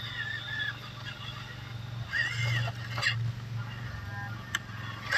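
Birds or fowl calling outdoors in a few short wavering calls, the clearest about two seconds in, over a steady low hum.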